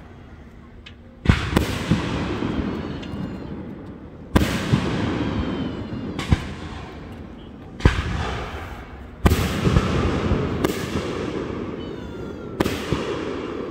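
Fireworks display: aerial shells bursting with about eight sharp booms at uneven intervals, each one trailing off over a second or two.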